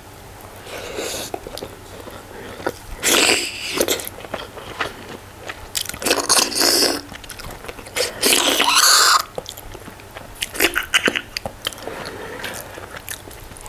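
Close-miked chewing and wet mouth sounds of someone eating rice and goat curry by hand, with soft smacks and clicks and a few louder, noisier spells of about a second each, around 3, 6 and 8 seconds in.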